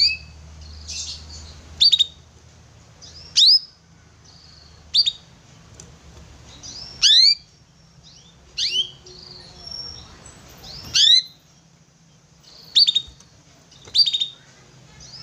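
Young domestic canary giving short, sharp call notes, each a quick downward sweep in pitch, repeated about every one and a half to two seconds, nine calls in all.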